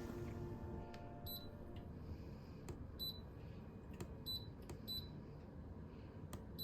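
A piano chord dies away in the first second. Then come scattered faint clicks and short, high beeps, about one a second.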